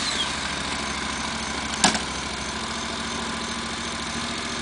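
Motorcycle engine idling steadily just after starting, with one sharp click about two seconds in.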